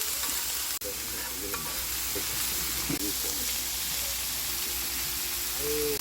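Food sizzling and frying in a pan while it is stirred, a steady hiss with a brief break about a second in.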